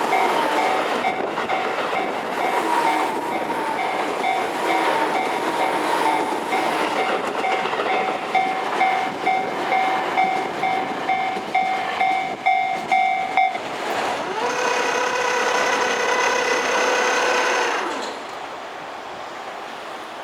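Tobu Railway electric trains running past, wheels clacking over the rail joints in uneven beats. About 14 s in a steady pitched tone with several overtones sounds for a few seconds and cuts off, and the noise then falls away.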